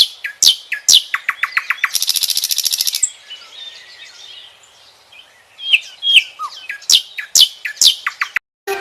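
A bird singing: sharp downslurred whistled notes, a fast trill and a buzzy rattle about two seconds in, then quieter chatter before more downslurred notes near the end.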